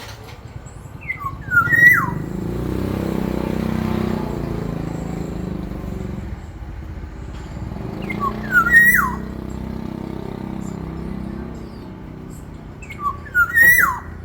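Black-naped oriole singing three short fluty whistled phrases, each a few gliding notes ending in a quick falling note, with sharp high notes mixed in. Between the phrases a motor vehicle's engine drone swells and fades.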